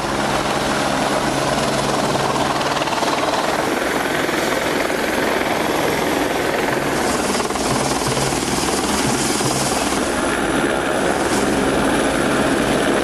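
Helicopter running close by: a steady wash of rotor and engine noise with a low, even drone.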